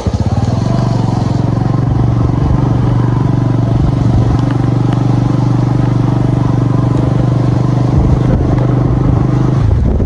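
Motorcycle engine running steadily under way, holding an even note that shifts shortly before the end.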